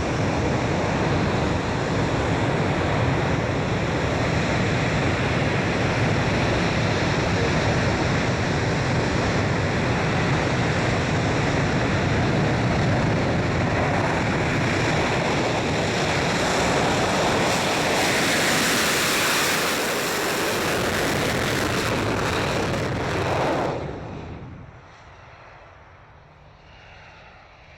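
English Electric Lightning F6's twin Rolls-Royce Avon turbojets running loud and steady, with a high whine building in the roar past the halfway mark. The noise then falls away sharply about 24 seconds in, leaving a faint low hum.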